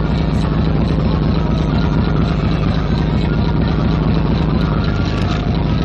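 Fishing boat's inboard engine running steadily, a loud even drone with a low hum.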